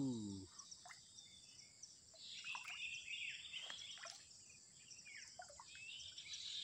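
Wild bird calls: a run of short chirps, each falling in pitch, over a steady high-pitched insect drone.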